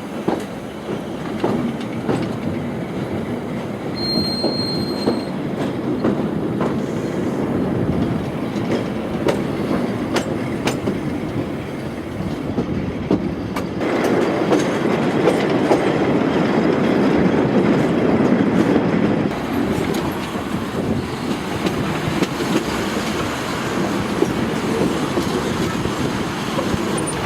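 Railway carriage running along the track, heard from on board: a steady rumble and rattle with irregular clicks of the wheels over the rail joints. It grows louder about halfway through and eases off again a few seconds later.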